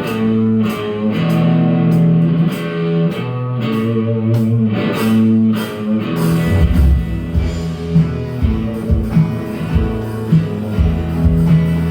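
A live rock band's instrumental intro. Electric guitar plays ringing picked chords, and about halfway through, bass and a steady low beat come in under it.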